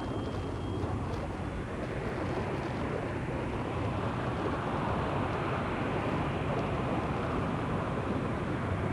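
Jet airliner's engines at takeoff power on a runway departure, a steady rushing rumble that swells about four seconds in.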